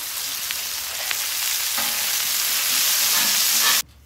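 Beef burger patties and buttered brioche buns sizzling on a hot flat-top griddle: a steady, high frying hiss that cuts off suddenly near the end.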